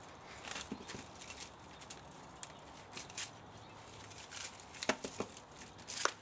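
Irregular light clicks, knocks and scrapes of hand work on a scrapped spa motor, with a cluster of sharper knocks near the end.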